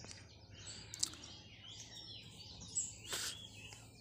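Several wild birds chirping and calling with short, quick, high notes, over faint outdoor background noise. A sharp click about a second in and a louder short noise about three seconds in.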